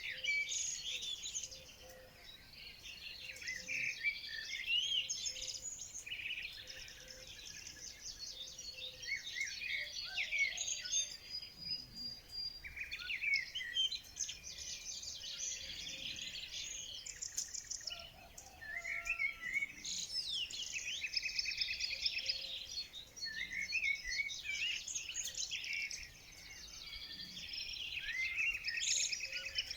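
Several songbirds singing at once, a dense, continuous mix of quick chirps, trills and whistles that swells and fades in waves.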